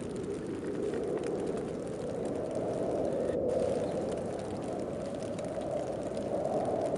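Snowstorm wind blowing in a steady rush that swells and eases every few seconds, with faint ticking above it.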